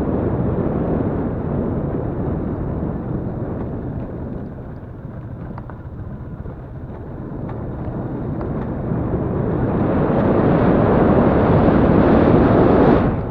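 Yamaha Crypton-X motorcycle's small single-cylinder four-stroke engine running under way, easing off about four seconds in and growing louder again over the last few seconds.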